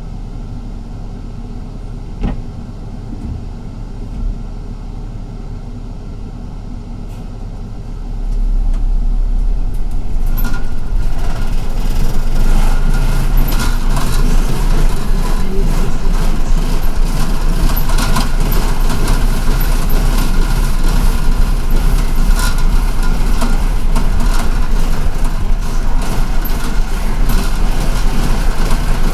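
City bus heard from inside, its engine running with a steady low rumble and a couple of knocks. About eight seconds in it gets much louder as the bus gets going, and the rest is engine and road noise with frequent rattles.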